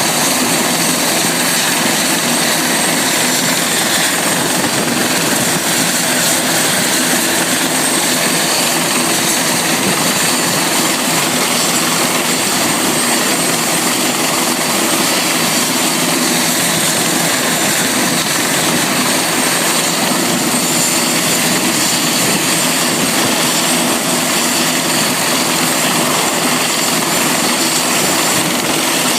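Helicopter running steadily: a loud, unchanging drone of engine and rotor noise with a steady high whine over it.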